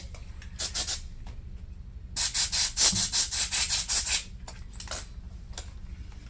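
Quick rubbing strokes against the inside of a laptop during cleaning. There is a short burst just before a second in, then a steady run of about four strokes a second for two seconds, then a couple of single strokes.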